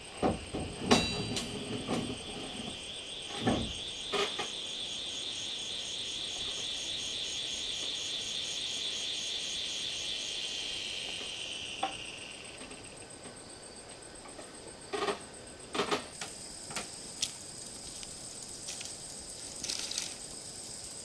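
Insects chirring steadily in a high, pulsing tone, with a louder high chorus that swells and fades out about twelve seconds in. Scattered knocks and clicks, the loudest in the first few seconds and again around fifteen to sixteen seconds in.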